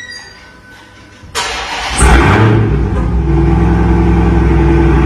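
Dodge Charger's engine being remote-started: the starter cranks briefly about a second and a half in, the engine catches loudly about two seconds in, then settles into a steady idle.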